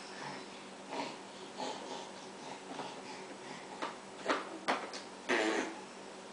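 A series of short breathy vocal noises, about six separate sounds. The longest one, a little past five seconds in, has a pitch.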